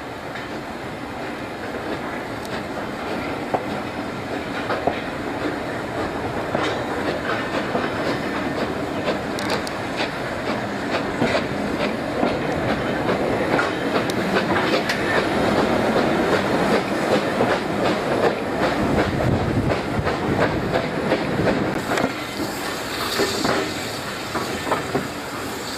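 Train running along a preserved railway line, its wheels clattering and clicking over the rail joints. It grows louder toward the middle, then eases off.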